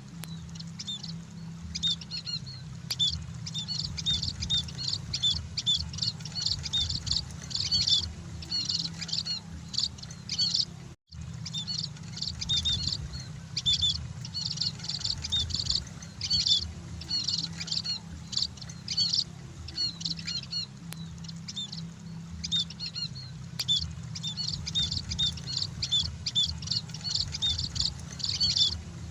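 A flock of munias (emprit) chirping continuously, many short high calls overlapping, over a steady low hum. The sound cuts out for an instant about eleven seconds in.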